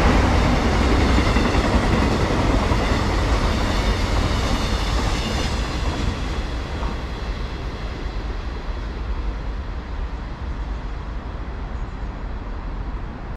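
A train running past on the rails, loudest at first and then slowly fading as it moves away, with a faint high whine in the first few seconds.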